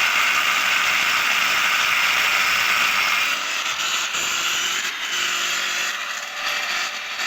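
Hand-held angle grinder running and grinding, a loud, steady hiss that eases a little and turns uneven about three seconds in.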